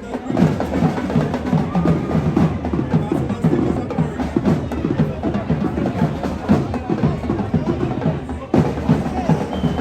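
Drum line playing a fast, steady rhythm of crisp stick strokes over bass drum.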